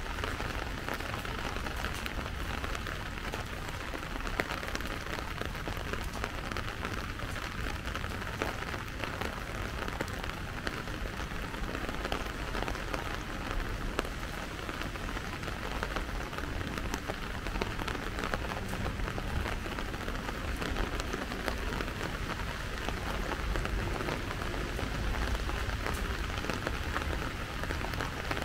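Steady rain falling, a dense patter of small drop ticks over an even hiss, with a low rumble underneath.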